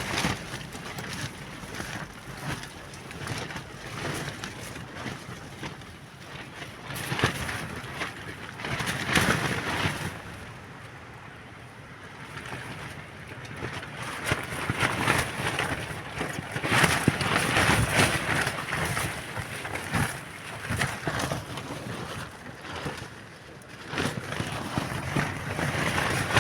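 Gusty wind, buffeting the microphone in waves that swell and die away every few seconds, with scattered short rustles and crackles.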